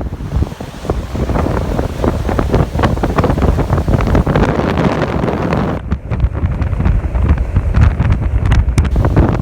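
Strong wind buffeting the microphone in uneven gusts, with surf washing on the beach underneath. The high hiss thins out abruptly about six seconds in.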